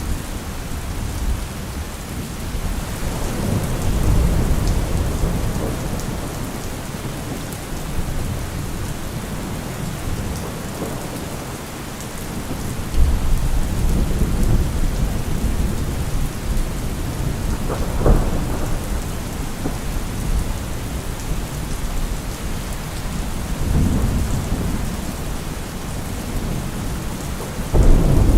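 Steady rain with thunder rolling through it: low rumbles swell and fade several times, with a sharper thunderclap about two-thirds of the way in and another near the end.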